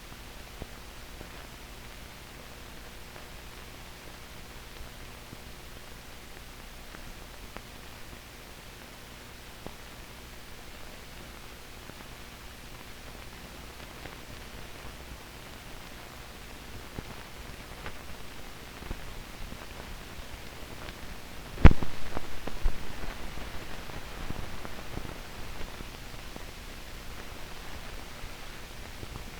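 Steady hiss of an old film soundtrack with faint scattered crackles. About two-thirds of the way through comes one sharp loud pop, followed by a few seconds of heavier crackling that fades back into the hiss.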